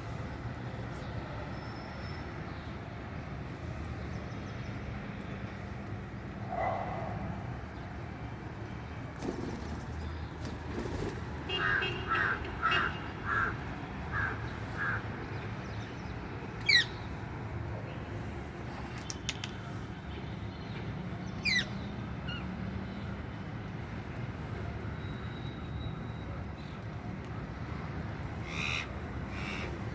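Birds calling over a steady low background rumble: a run of about seven short calls about twelve seconds in, then two sharp, quickly sweeping screeches, with a few fainter calls between.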